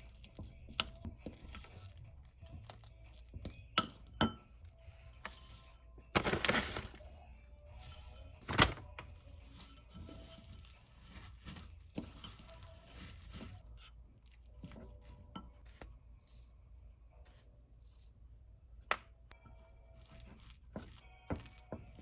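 Scattered light clicks, knocks and clinks of small objects being handled, with a brief rustle about six seconds in, over faint background music.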